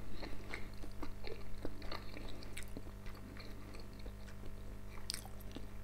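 A man chewing a mouthful of boiled homemade pelmeni with a creamy sauce: soft, wet mouth smacks and small clicks, busier in the first couple of seconds and then slowing. A steady low hum runs underneath.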